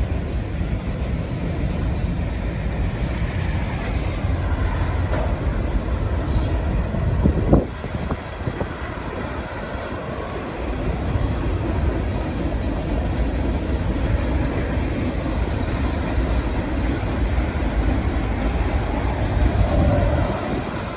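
Freight train cars rolling past with a steady low rumble of wheels on rails, and one sharp clank about a third of the way through.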